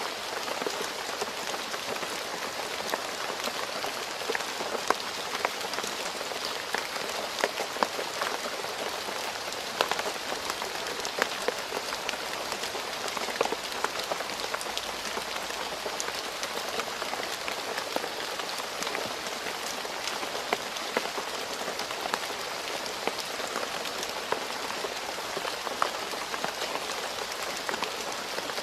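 Steady rain falling on a road surface: an even hiss dotted with the sharp ticks of individual drops striking.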